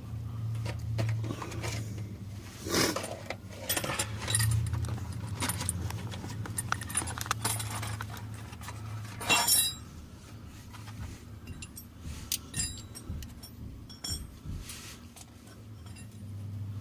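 Irregular metallic clinks and taps of hand tools and exhaust clamp hardware being handled, with louder clatters about three seconds and nine seconds in, over a low steady hum.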